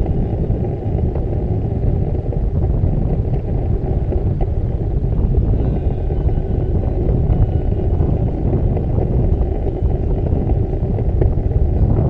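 Low, steady wind rumble buffeting the microphone of a camera on a moving bicycle, with faint music in the background.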